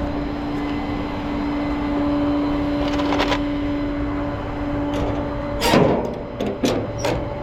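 Tow truck running with a steady whine over a low rumble. Metal clanks come about three seconds in and again later, the loudest about two-thirds of the way through, where the whine stops.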